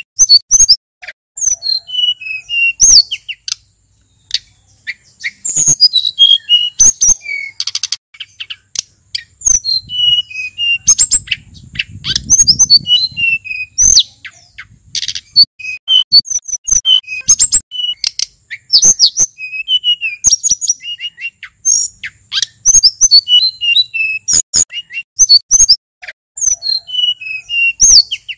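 Male sulingan gunung songbird singing a fast, varied song of short chirps and whistled notes in quick strings, with brief pauses between phrases.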